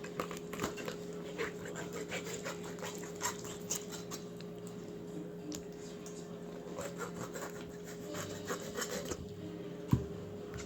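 Knife cutting through raw chicken skin and the thigh joint, with irregular small wet clicks and rubs as the leg is worked away from the body. A steady low appliance hum runs underneath, and a louder knock comes near the end.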